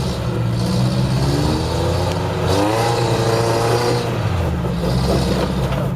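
Off-road truck's engine running steadily. Its revs rise and then fall back in the middle.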